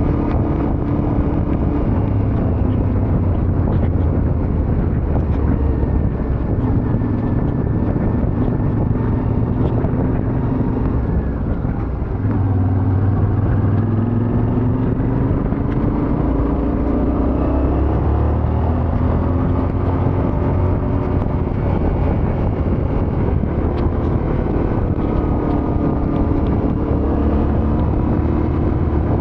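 Yamaha Ténéré 700's parallel-twin engine running under way, its pitch falling and rising with throttle and gear changes, over a steady rush of wind and road noise. The engine eases off about twelve seconds in, then climbs in pitch again as it accelerates.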